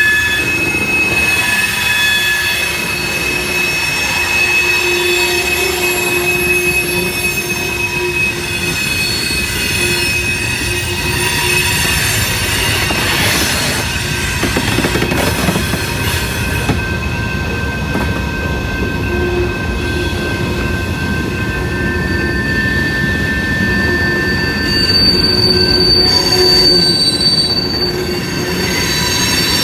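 Freight cars rolling past with steady rail rumble, their wheels squealing in several high, held tones that come and go throughout.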